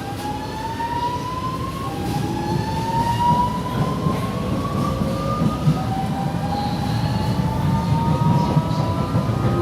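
Interior sound of a series 8900 electric multiple unit gathering speed. The traction inverter and motor whine rises in pitch in several steps, falling back and climbing again each time. Under it runs the rumble of the wheels on the track.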